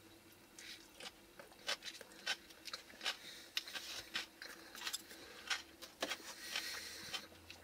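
A person chewing a mouthful of creamy coleslaw: quiet, irregular clicks and crunches from the mouth.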